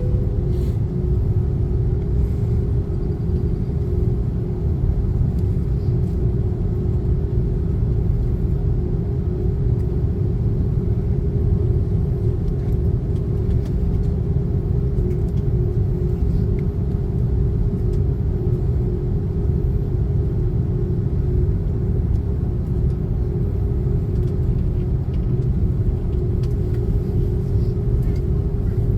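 Cabin noise inside an Airbus A330-300: the steady low rumble of the jet engines and airframe, with a constant hum running through it.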